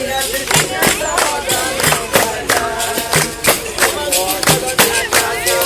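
Capoeira roda music: berimbau-led percussion playing a steady rhythm, with a low drum beat about every second and a bit, under voices singing.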